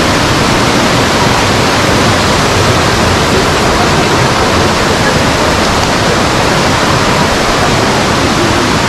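Loud, steady rush of falling water, an even roar with no breaks.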